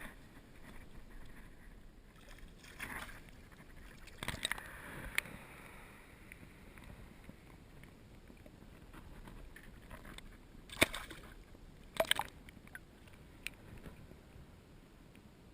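Small fishing boat: a handful of sharp knocks and clatters of gear against the hull, the loudest about eleven and twelve seconds in, over a faint steady hiss.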